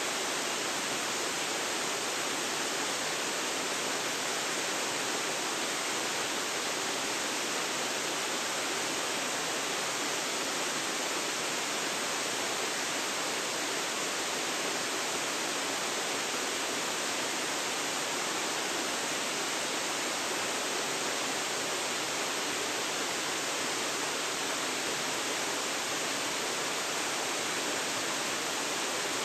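Water of Ogase Falls rushing in a steady, even hiss with no breaks or changes.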